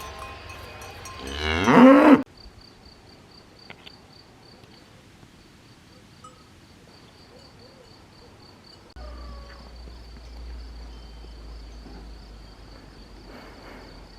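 A cow moos once, loud and rising in pitch, about a second and a half in, and cuts off suddenly. After that an insect chirps faintly in a steady rhythm, about four chirps a second.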